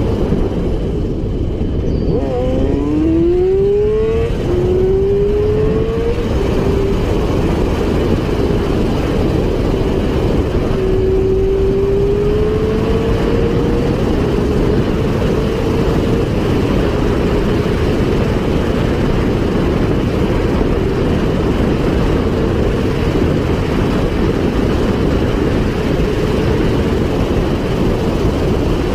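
Motorcycle engine accelerating at speed, its pitch climbing, dropping at a gear shift and climbing again, then holding, over a loud, steady rush of wind noise.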